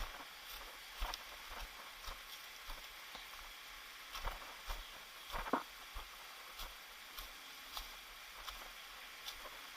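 Footsteps of someone walking on a trail, short knocks and thuds at about two a second, over a steady hiss.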